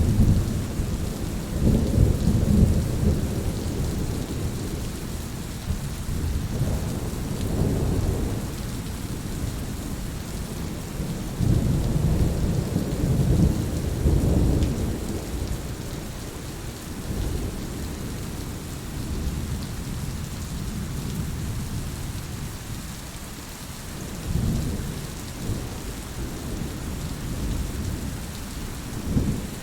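Steady rain with rolling thunder: low rumbles swell and fade several times, strongest in the first few seconds and again about halfway through, over a constant hiss of rain.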